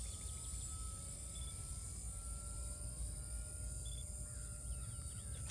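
Open-field ambience: a steady high insect buzz and wind rumbling on the microphone, with a faint, slightly wavering whine from the electric motor and propeller of a distant RC model plane.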